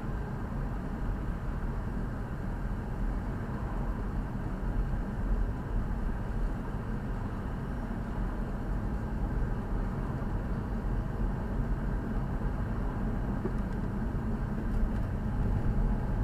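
Steady road and engine noise heard from inside a moving car's cabin, a low rumble with no sudden changes.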